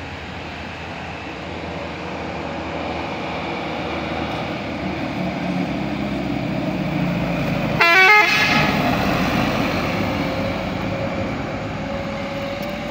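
A heavy vehicle approaching and passing on the road, its engine and tyre noise building to a peak, with a short horn toot about eight seconds in whose pitch steps through a few notes.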